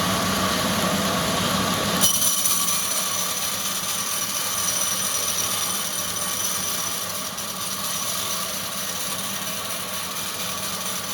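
Wood-processing machinery running steadily, with a held high whine over a noisy mechanical din. The sound changes abruptly about two seconds in, then runs on evenly.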